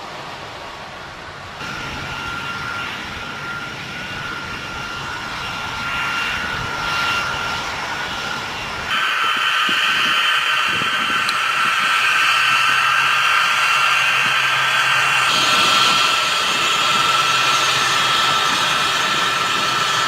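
Engines of military transport aircraft running with a steady high turbine whine over a roar. The sound changes abruptly twice, between edited shots, and is louder from about nine seconds in.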